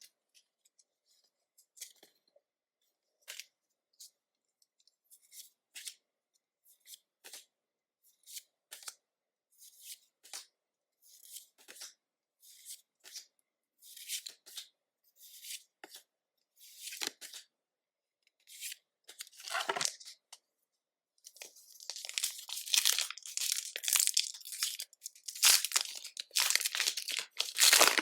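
Pokémon trading cards being handled, with short scattered slides and flicks of card on card. About three quarters of the way in, this gives way to a dense stretch of foil booster pack wrapper crinkling and tearing open.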